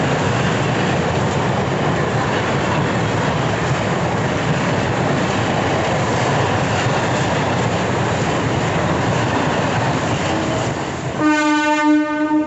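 Electric suburban local train (EMU) running past on the tracks, a loud steady rushing noise; about a second before the end a train horn sounds one steady note.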